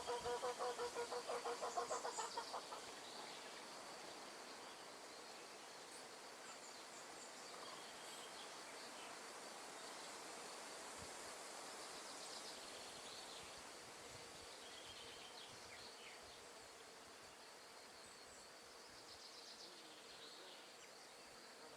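Outdoor nature ambience: a steady high insect drone over a soft hiss, with scattered small bird chirps. For the first two or three seconds a louder, rapidly pulsing buzzy animal call stands out, then fades.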